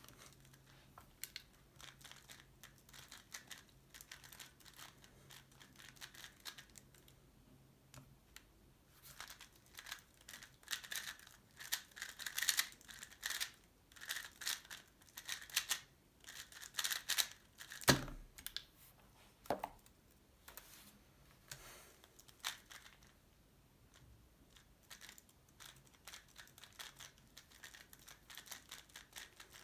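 Tornado V3 Pioneer speedcube being turned, a fast clatter of plastic clicks like typing, sparse at first, then dense and louder for about ten seconds in the middle, with one sharp knock near the end of that run.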